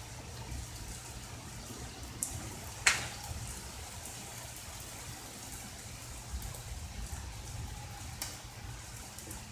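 Steady rain falling, with a few sharp taps, the loudest about three seconds in.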